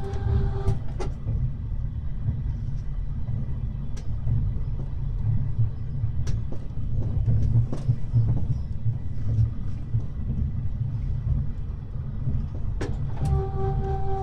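Running noise of a blue-train sleeping coach, Ohane 25 522 on TR217 bogies, heard from inside a compartment at the car's end: a steady low rumble from the wheels and bogie, with a few sharp clicks and knocks scattered through it.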